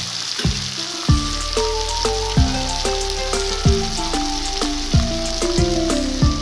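Onions and tomatoes sizzling steadily in hot oil in a wok, under background music with a melody and a deep beat about every second and a quarter.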